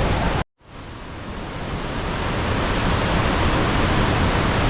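Steady roar of the Rhine Falls' water, with heavy low rumble. It cuts out abruptly about half a second in, then fades back up to full over the next two seconds.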